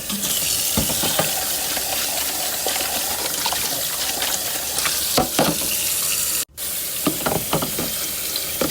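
Tap water running steadily into a sink while a plastic fruit storage container is rinsed, with short knocks and rattles of the plastic being handled under the stream. The sound breaks off for an instant about six and a half seconds in.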